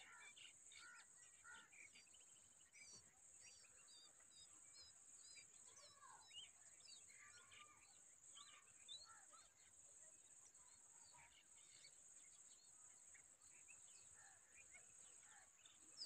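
Faint bird sounds: scattered short chirps and twittering calls, with a run of quick high chirps a few seconds in, over a steady high-pitched hiss.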